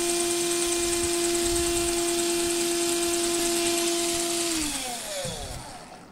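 Cordless drill running at a steady speed with a high motor whine, then released about four and a half seconds in and spinning down, its pitch falling away.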